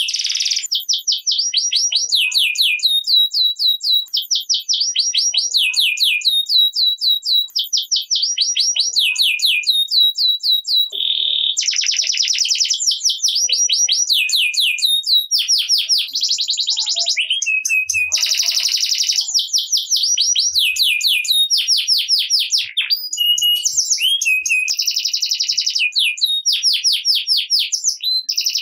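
Domestic canary singing continuously in fast rolling trills: each phrase a rapid run of identical high notes, moving straight into the next phrase.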